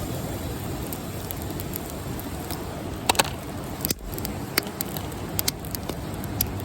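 Wood campfire burning, with irregular sharp pops and crackles over a steady low rushing sound; the loudest pops come in a quick cluster about three seconds in.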